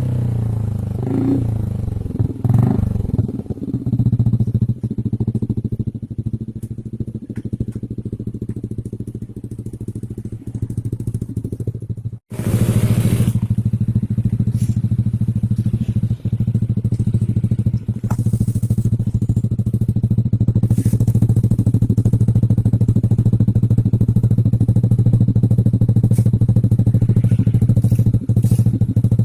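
Yamaha NVX 155 / Aerox 155 single-cylinder scooter engine running through an F2 Racing stainless full-system exhaust. It settles down from a rev at the start into a steady idle. The sound cuts out for an instant about twelve seconds in, then the idle comes back louder and steady.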